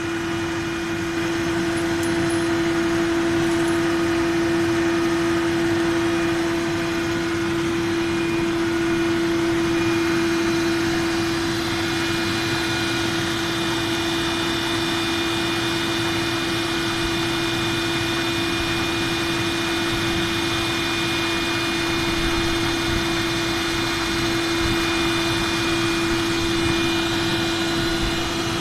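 Electric carding machine for wool and cotton running steadily, its spiked drum and dust-extraction fan spinning at speed, with a strong, even hum. Fainter higher whining tones grow stronger about halfway through.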